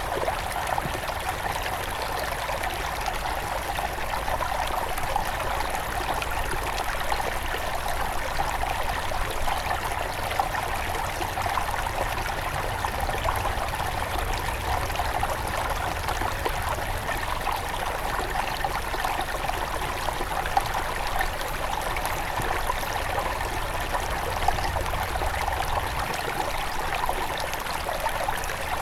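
Small forest river near its source flowing and trickling over stones, a steady bubbling wash of water.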